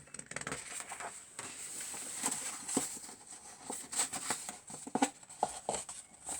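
Sheets of paper being handled and set down: rustling with scattered light taps and knocks.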